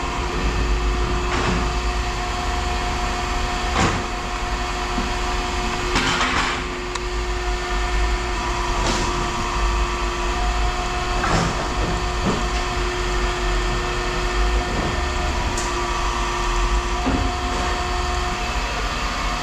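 A vehicle engine running steadily with a constant hum and a low rumble, broken by a dozen or so short knocks and clanks and a longer rattle about six seconds in.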